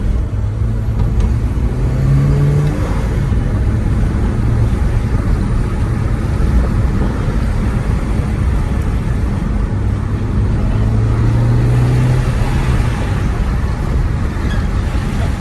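Turbocharged Mini R57's four-cylinder engine pulling under acceleration, with heavy road and wind noise. The engine note rises about two seconds in and rises again about ten seconds in.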